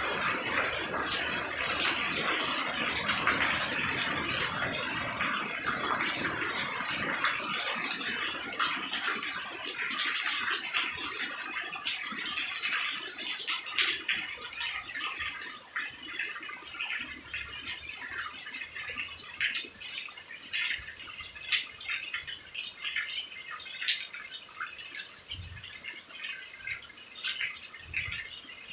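Rain falling beside a house, with many separate drips and splats. The steady rain hiss eases off over the first half, leaving mostly individual drips that sound clearer towards the end.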